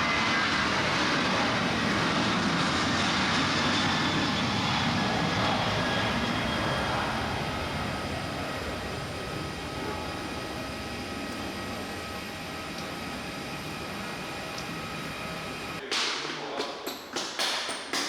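Jet airliner engines: a loud rush with a steady high whine, easing down about seven seconds in and then running on more quietly. Near the end, a quick series of sharp clicks and knocks.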